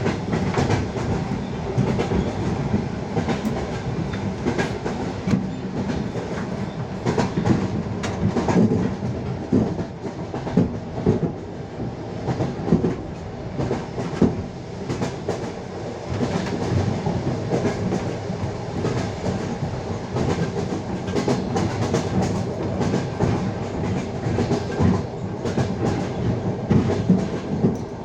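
Passenger train carriage's wheels clattering over rail joints at speed, over a steady running rumble, with sharp knocks coming irregularly throughout.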